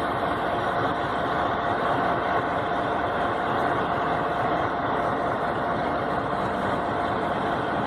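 Passenger train rolling past at close range: a steady running rumble with a thin, steady whine above it.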